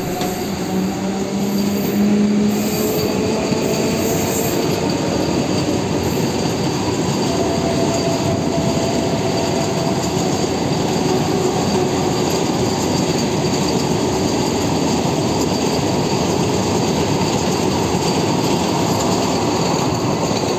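Vande Bharat Express electric multiple-unit train passing close by: a steady rush and rumble of wheels on rail, with faint thin whining tones now and then.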